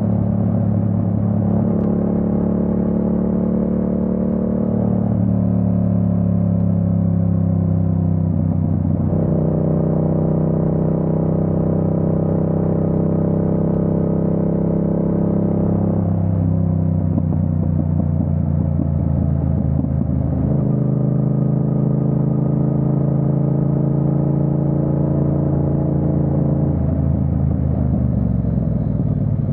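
Yamaha MT-07's 689 cc crossplane parallel-twin engine running under way, its note steady between changes and stepping to a new pitch several times, as with gear changes on the ride.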